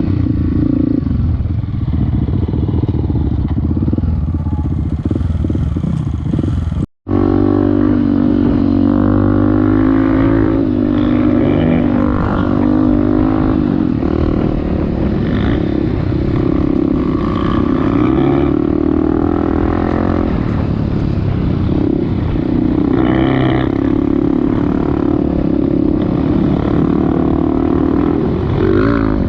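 Off-road motorcycle engine running while being ridden, its pitch rising and falling with the throttle. The sound cuts out completely for an instant about seven seconds in, then the engine continues.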